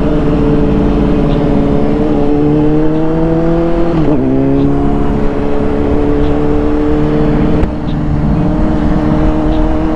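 Honda CBR600RR's inline-four engine under way, its pitch climbing slowly, then dropping sharply about four seconds in as it shifts up a gear, then holding steady at a cruise.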